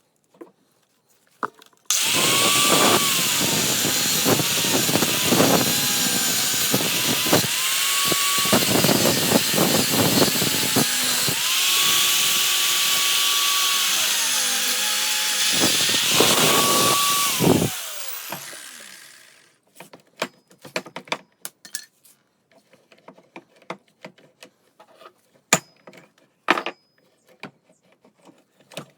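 Power grinder cutting into a seized steel CV joint. The motor's whine dips in pitch again and again as the disc bites, then recovers. It starts about two seconds in, runs for about sixteen seconds, then winds down, and scattered light metallic taps and clicks follow.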